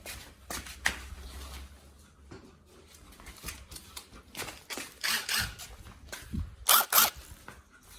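Scattered clicks and knocks of hand tools and loose parts being handled, with two sharp loud clacks about a second from the end.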